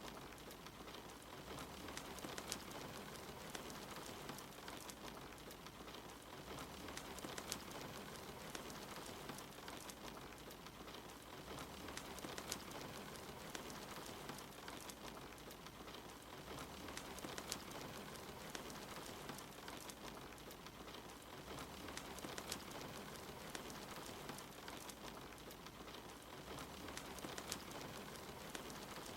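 Soft steady rain mixed with a crackling wood fire, with sharp pops and snaps scattered throughout. A faint low rumble swells and fades every few seconds.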